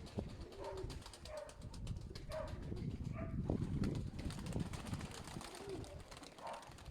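Sickle-winged (serpastye) domestic pigeons cooing, a short coo about every second, over light scattered tapping.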